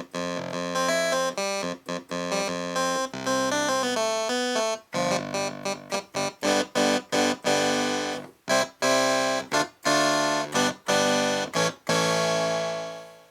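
Roland JX-3P synthesizer with the Kiwi-3P upgrade playing its clavinet-style "Clav" preset: a run of short, staccato notes and chords, ending on a held chord that fades out near the end.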